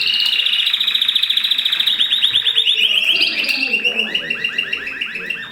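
Mosaic canary singing a rapid trilled song: fast runs of repeated notes that change pitch and speed every second or two, with a slower run of falling notes near the end.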